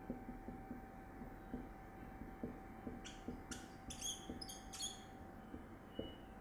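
Writing on a board: soft taps and scratches, with a run of short, high squeaks between about three and five seconds in, over a faint steady hum.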